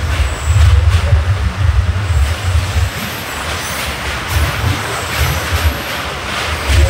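MEMU electric train running along the track: a heavy, uneven low rumble of wheels on rails under a steady rushing noise, with faint high squeals from the wheels.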